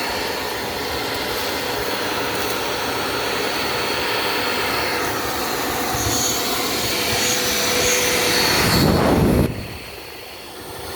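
A loud, steady rushing noise with no clear pitch. It swells slightly, then drops off abruptly near the end.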